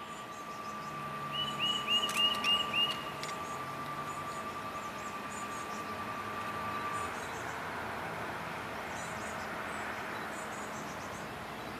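Songbirds in woodland: one bird sings a quick run of about six repeated chirped notes a second or so in, and other birds chirp faintly and high-pitched throughout. A steady thin hum stops about seven seconds in.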